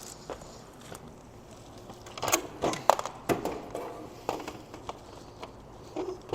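Irregular knocks, clicks and scraping of parts being pried loose and handled by hand during camper demolition, busiest in the middle with a few lighter knocks near the end.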